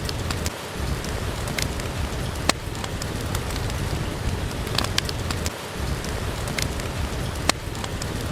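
Steady rain falling, mixed with the crackle of a wood fire in a fireplace: scattered sharp pops over the even hiss of the rain.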